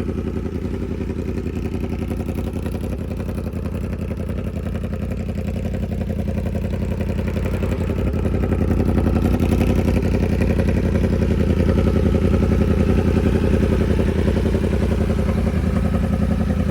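Yamaha R1's inline-four engine idling steadily through its exhaust, getting a little louder about halfway through.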